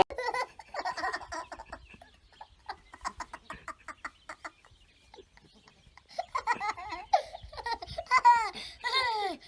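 Faint clicks and brief short calls, then from about six seconds in a run of high-pitched, laugh-like calls, each a short note falling in pitch, repeated in quick bursts.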